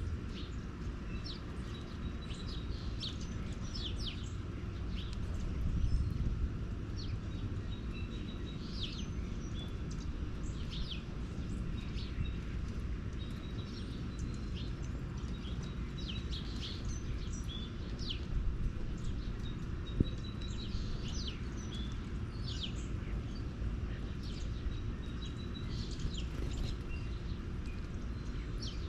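Small birds chirping: many short, high calls, several sliding downward, repeated throughout over a steady low background rumble. A single sharp click about twenty seconds in.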